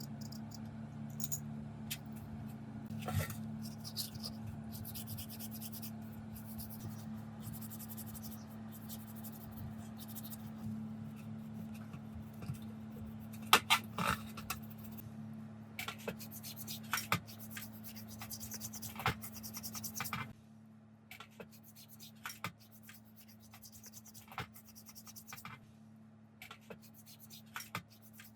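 Scraping and rubbing with scattered sharp clicks and knocks, over a steady low hum that cuts off about twenty seconds in.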